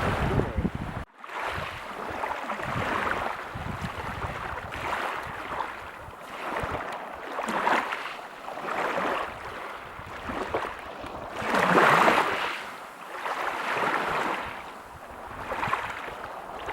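Ocean waves breaking and washing up a beach: a rushing surf that swells and fades again and again, the biggest wash about twelve seconds in. The sound drops out for an instant about a second in.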